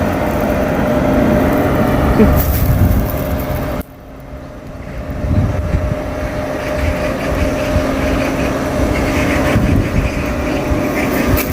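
Engine of a road roller compactor running steadily. The sound drops abruptly about four seconds in, then builds back up to the same steady running.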